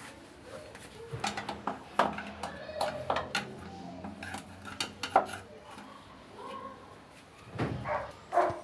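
Irregular clinks and knocks of hard objects being handled, several sharp ones in quick succession.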